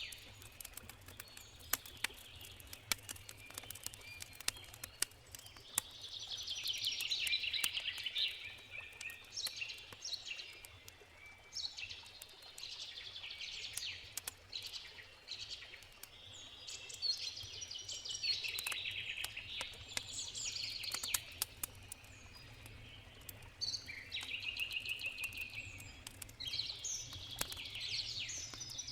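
Songbirds singing repeated trilled phrases every few seconds over the sharp crackle and pops of a campfire, with a steady low rush of a river underneath.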